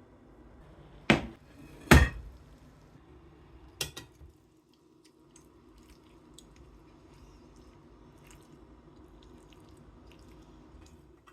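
Two loud sharp knocks about a second apart, two lighter knocks a couple of seconds later, then faint scattered light clicks over a low steady hum.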